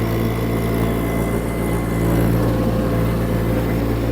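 Small diesel engine of a mini skid steer running steadily, its tone and load shifting slightly about two seconds in.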